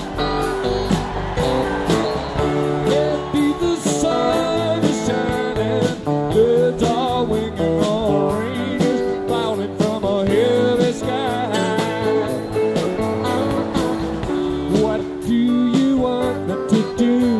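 Live rock band playing an instrumental passage: bending guitar lines over bass and drums.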